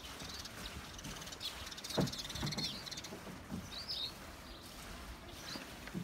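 Outdoor ambience with scattered short, high bird chirps. There are a couple of soft low thumps about two seconds in.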